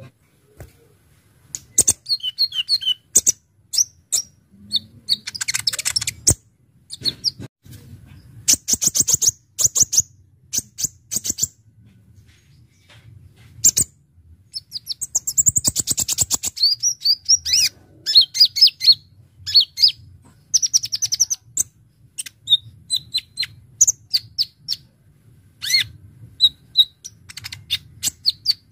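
A Kolibri Ninja (konin) sunbird singing in a fast, busy stream of sharp, high chirps and rapid rattling trills, in bursts broken by short pauses.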